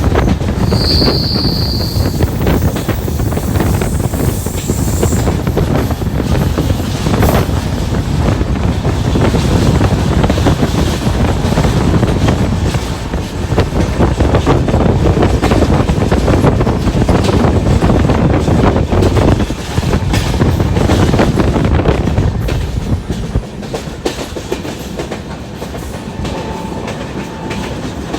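Swaraj Express passenger train running past, its coach wheels clattering steadily over the rail joints, with a short high squeal about a second in. The sound drops off over the last few seconds as the train moves away.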